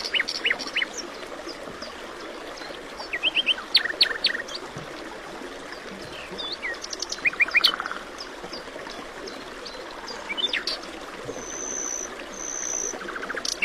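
Birds chirping: many short, sharp calls, often in quick runs of three or four, over a steady background hiss.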